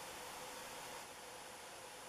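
Faint, steady background hiss with a faint, even hum beneath it.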